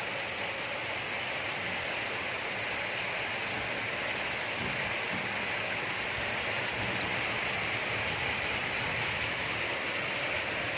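Steady, even rushing noise, like a fan or hiss, with no distinct events in it.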